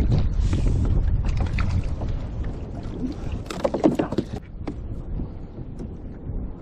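Wind buffeting the microphone on a kayak at sea, easing after about two and a half seconds, with scattered small splashes and knocks on the kayak and a louder cluster of them about three and a half to four seconds in.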